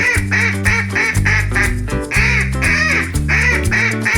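Duck quacking in a quick run of short calls, about three a second, over cheerful background music.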